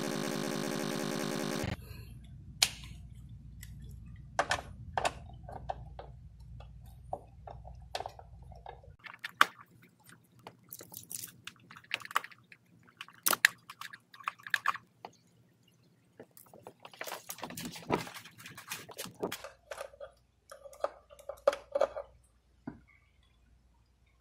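Irregular small clicks, taps and rustling of hands working with tools and small parts at the car's door-jamb light switch, with no rhythm. A steady layered sound cuts off suddenly about two seconds in.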